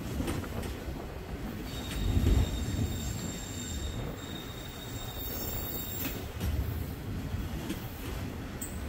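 Freight train of autorack cars rolling slowly past with a low rumble of steel wheels on rail and a few sharp clanks. A thin, high-pitched wheel squeal comes in about two seconds in and fades out around six seconds.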